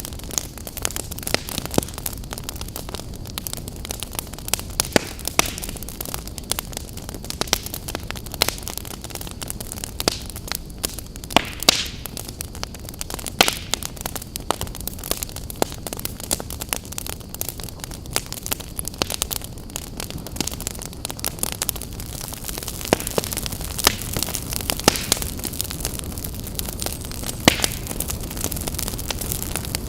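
Wood fire crackling and popping: irregular sharp pops over a steady low rushing of the flames.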